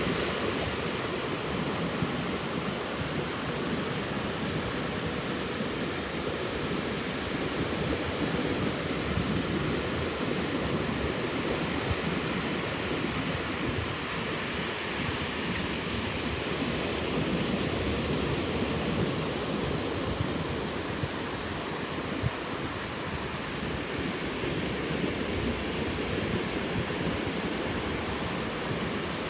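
Steady roar of ocean surf with wind buffeting the microphone.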